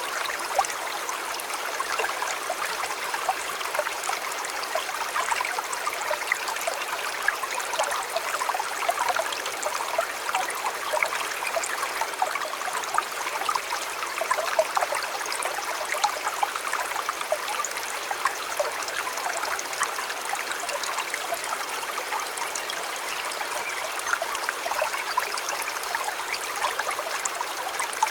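A shallow river or stream flowing steadily over rocks, with a constant bubbling rush full of small splashes and trickles.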